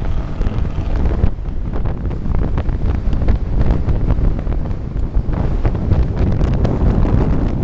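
Loud, rough engine noise from a vehicle being revved, mixed with heavy wind buffeting on the microphone.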